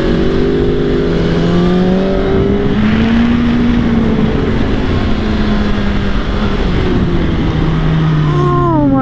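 Sport motorcycle engine at speed on a race track, its note rising and easing over heavy wind rush on the microphone. Near the end the engine pitch swings quickly down and up several times.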